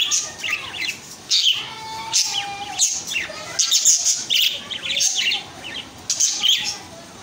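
A pet bird chirping and squawking: a run of short, sharp, high calls in quick clusters, with brief pauses between.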